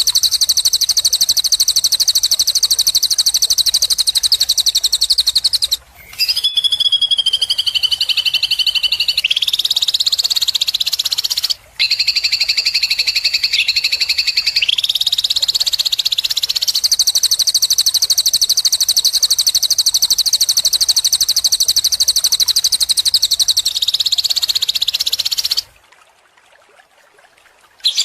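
Recorded songbird song of the kind played to train cage birds: a loud, very fast, buzzy trill of high notes. It breaks off twice briefly and has a few rising phrases near the middle, then stops abruptly near the end.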